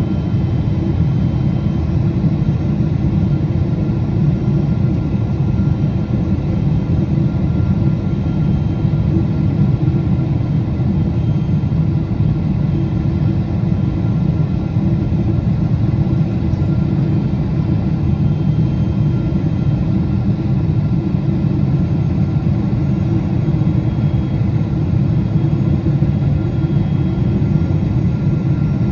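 Steady cabin rumble of a Boeing 777-200 in flight: engine and airflow noise, even throughout, with a few faint steady tones above the rumble.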